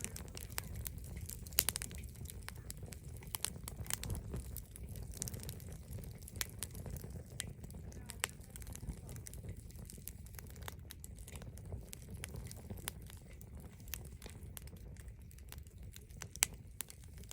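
Wood bonfire crackling, with frequent sharp, irregular pops and snaps over a low steady rumble.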